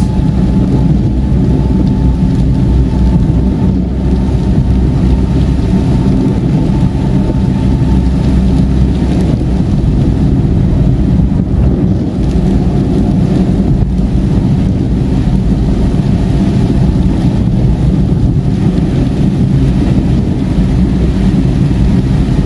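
Steady road and engine noise heard inside a car cruising on a highway in heavy rain, a deep even rumble with rain on the car mixed in.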